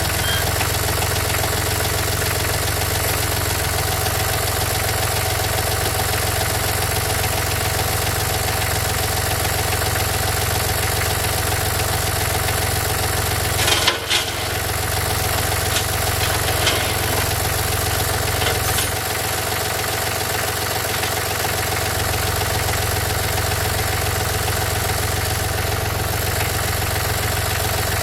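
Tractor engine running steadily at about idle. It drops out briefly about halfway through, and a few short knocks follow.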